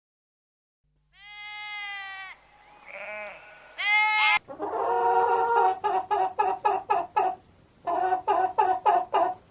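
Farm animals bleating: one long call about a second in and two shorter ones, then after an abrupt change a quick, wavering, stuttering bleat repeated several times.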